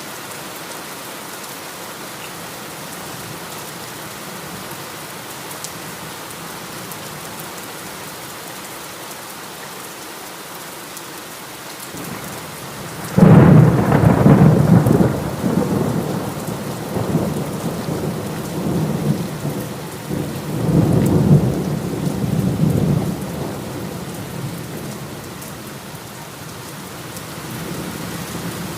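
Steady heavy rain, then a loud thunderclap about halfway through that rolls on as rumbling thunder in several waves for around ten seconds before fading back under the rain.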